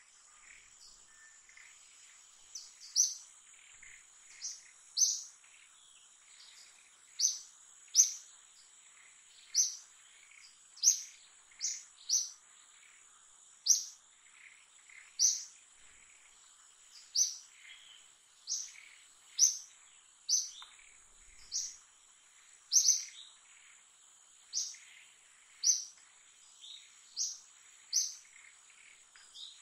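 A bird's short, high chirp repeated about once every second or so, over a steady high-pitched insect drone.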